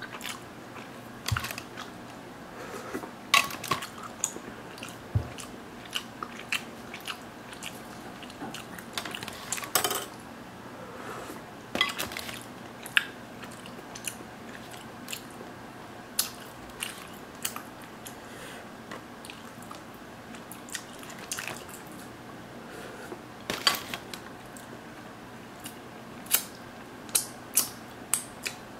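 Close-miked chewing and wet mouth sounds, with short clicks and smacks scattered throughout. Near the end comes a quick run of sharp lip smacks as sauce is licked off the fingers.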